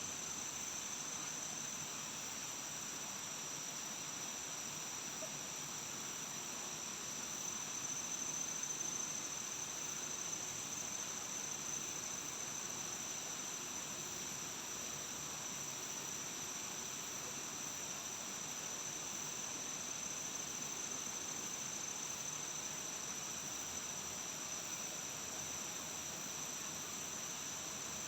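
A forest insect chorus, with crickets giving a continuous high, steady buzz over an even background hiss.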